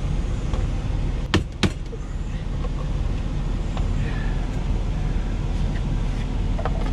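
Steady low engine rumble of an idling truck, with two sharp knocks about a second and a half in.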